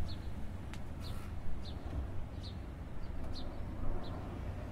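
A small bird chirping over and over, short high chirps a little under a second apart, over a steady low rumble of background noise.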